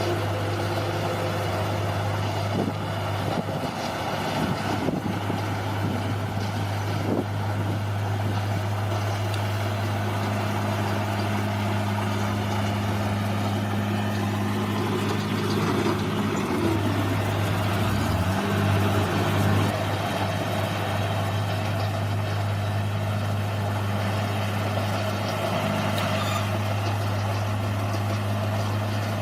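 Bulldozer's diesel engine running steadily, its pitch dipping briefly and recovering about eighteen seconds in. A few sharp knocks come in the first several seconds.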